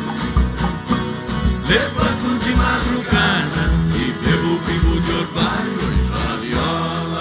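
Brazilian country band playing an instrumental passage: plucked and strummed guitars over a steady low beat.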